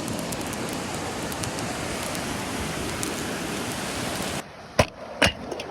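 A steady, even hiss that cuts off suddenly about four and a half seconds in, followed by two sharp knocks.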